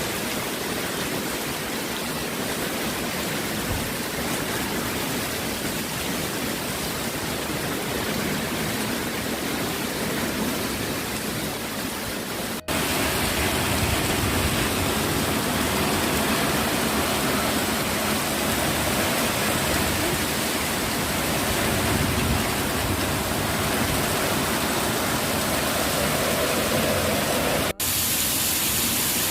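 Steady rush of water, a loud even noise with no rhythm, broken twice by sudden cuts after which it goes on louder and fuller in the low end.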